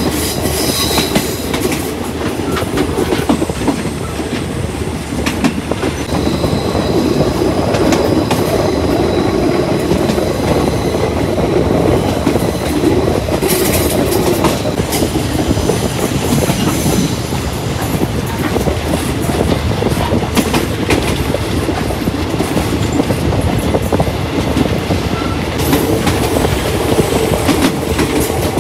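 Passenger train running along the track, its wheels clattering over the rails in an irregular clickety-clack under a steady rumble, with a faint high wheel squeal coming and going in the middle.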